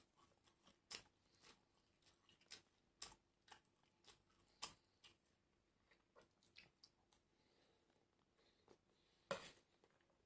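A person chewing and crunching crisp fried food, with scattered sharp crackles and a louder crunch about nine seconds in.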